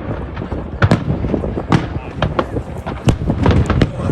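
Fireworks display: a rapid, irregular series of bangs and crackles from aerial shells bursting, over a background of crowd voices.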